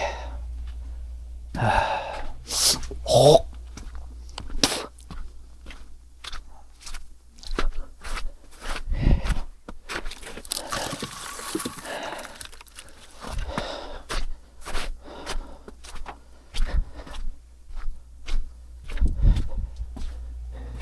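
Footsteps with scuffing and scraping: a string of short knocks and rustles, with a longer scrape near the middle and fairly even steps about two a second later on.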